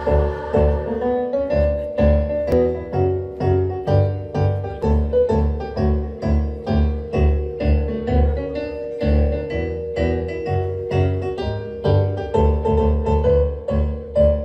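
Piano-style keyboard accompaniment playing an instrumental interlude in a march rhythm, bass notes and chords on a steady beat of about two a second, with no voices.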